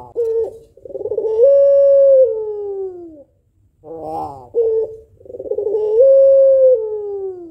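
A white female ringneck dove (puter pelung) cooing, the long, drawn-out call of a hen calling to a male. Two calls about four seconds apart, each a short rough stuttering coo followed by a long coo that steps up in pitch, holds, then slides slowly down.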